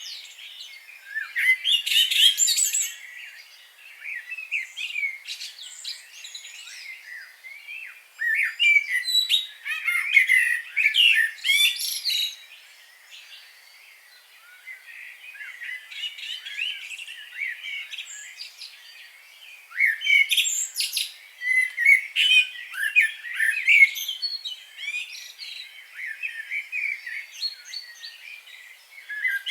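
Several songbirds chirping and singing together, with rapid high-pitched trills and chirps coming in louder bursts several times.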